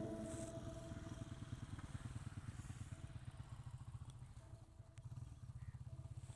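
A faint engine running steadily with an even low pulse, as the tail of the music dies away at the start.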